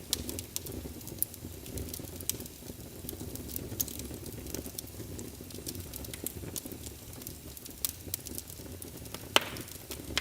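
Wood fire burning in a fireplace: a steady low rumble of flames with many small sharp crackles, and one louder pop near the end.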